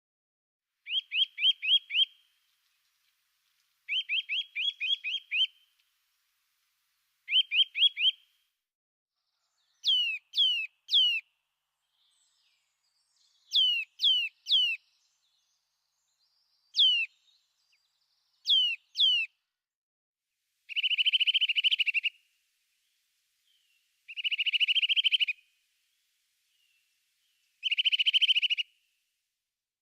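A small songbird sings in separate phrases, each about a second long with a pause of two to three seconds between them. First come three quick trills, then groups of three clear notes falling steeply in pitch, and near the end three buzzy, rattling trills.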